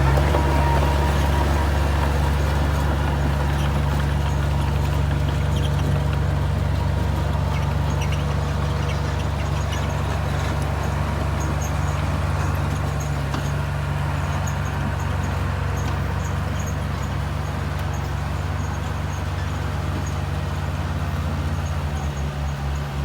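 Bulldozer's diesel engine running steadily with a low drone while working.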